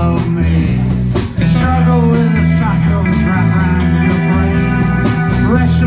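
Live rock band playing an instrumental passage: electric lead guitar with bending notes over bass guitar and drums with regular cymbal strokes.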